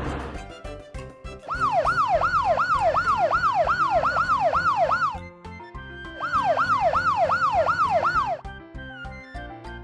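Cartoon emergency-vehicle siren sound effect: a fast rising-and-falling yelp, about three sweeps a second, in two runs with a short break between them, over background music with a beat.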